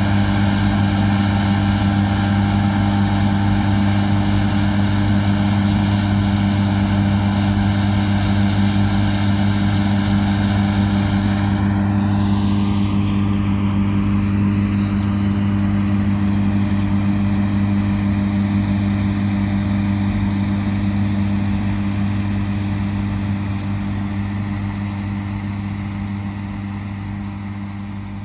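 Diesel engine of harvest farm machinery running steadily with a deep drone. A higher whine falls in pitch about twelve seconds in, and the sound fades out near the end.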